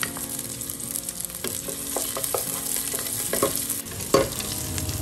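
Chopped garlic, ginger and onion sizzling in hot cooking oil in a pressure cooker pot, sautéed with a wooden spatula that scrapes and knocks against the pot now and then. The sharpest knock comes about four seconds in.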